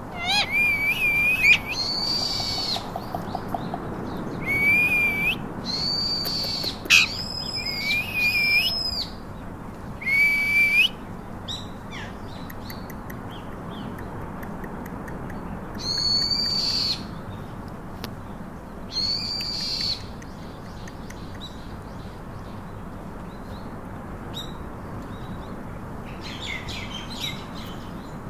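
Parakeet calling: a series of loud, shrill squawks, each under a second and rising at the start. They come in quick succession for the first ten seconds or so, then twice more after a pause, with fainter calls near the end.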